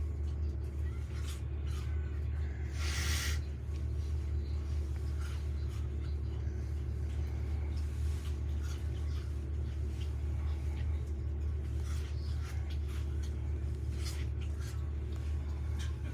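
Airbus A321-231 airliner's IAE V2500 jet engines heard from the ground as a steady low rumble as it flies over. A short hiss comes about three seconds in.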